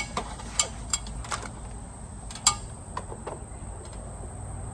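Several sharp hard-plastic clicks and knocks as gutter and PVC pipe pieces are slid and pushed together, the loudest about two and a half seconds in. A steady high insect drone runs underneath.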